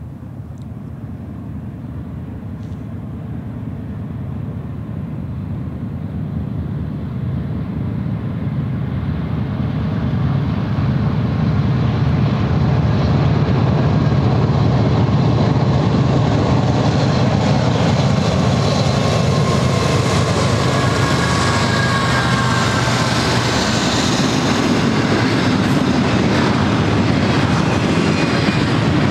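Double-stack intermodal freight train led by two GE C44-9W diesel locomotives approaching and passing. The diesels' low rumble grows steadily louder over the first dozen seconds. Later the loaded stack cars roll by with steady wheel-on-rail clatter.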